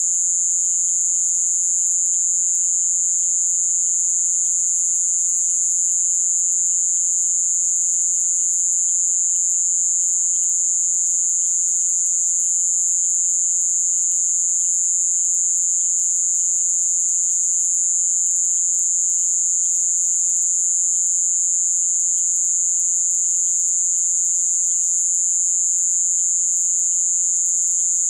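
Dense chorus of night insects in Amazon rainforest: a loud, unbroken high-pitched trill, with fainter rapid chirping lower down.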